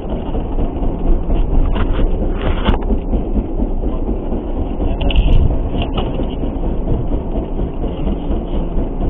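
Steady low rumbling and washing noise aboard a small fishing boat in rough sea, with a few brief knocks.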